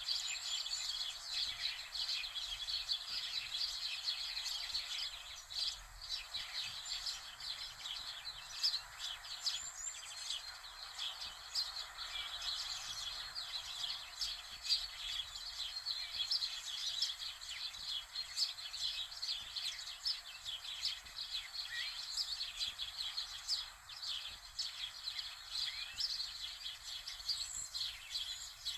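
Many small birds chirping and twittering without a break, a dense chorus of short, quick calls over a faint steady hiss.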